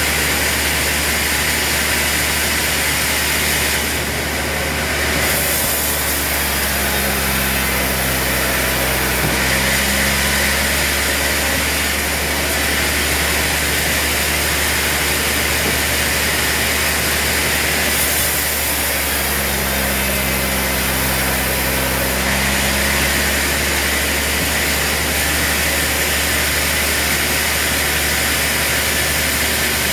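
Sawmill machinery running steadily and loudly. Twice, about 7 and 19 seconds in, a deeper droning tone swells and fades over a few seconds with a brighter hiss, in a cycle about twelve seconds long.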